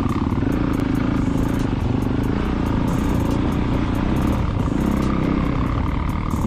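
Motorcycle engine running steadily under way, with a constant low drone.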